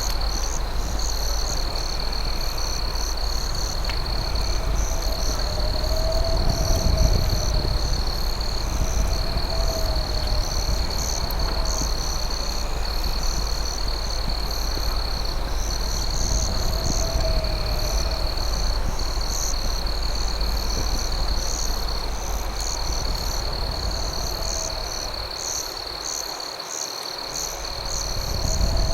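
Night insect chorus: crickets chirping in quick pulses above a steady high trill, with a lower call that rises and falls every few seconds, over a low steady rumble.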